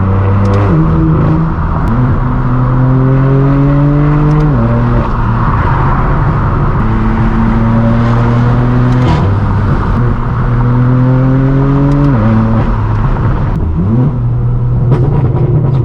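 Straight-piped BMW M4 F82's twin-turbo inline-six accelerating hard through the gears. The pitch climbs for a few seconds and then drops suddenly at each upshift, about four times, with short sharp cracks from the exhaust around the shifts.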